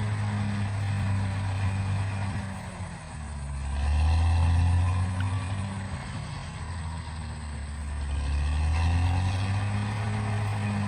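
Bulldozer's diesel engine running under changing load: it eases off briefly about three seconds in, then comes on louder and deeper around four seconds, and swells again near the end.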